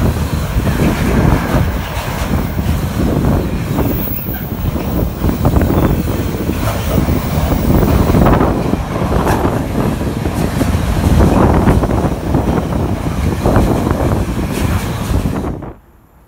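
Container freight train's wagons passing close at speed: a loud, continuous rumble of wheels on rail with repeated clattering knocks, cutting off abruptly near the end.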